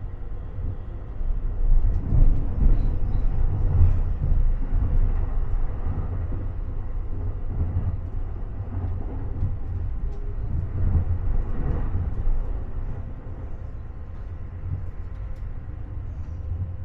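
Metre-gauge regional train running along the line, heard from inside the carriage: a steady low rumble of wheels on rail, swelling about two seconds in and again around eleven seconds, then easing off.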